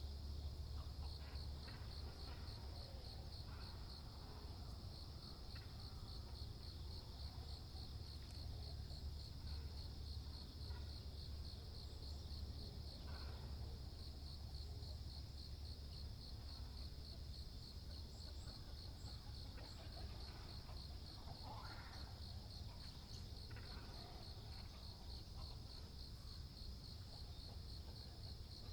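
A steady insect trill, pulsing rapidly and evenly without a break, over a low rumble. A few faint, short water-bird calls stand out about halfway through and again about three-quarters of the way in.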